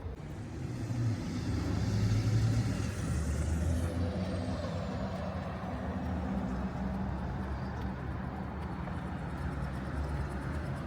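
City street traffic: motor vehicle engines running past, loudest about two to three seconds in.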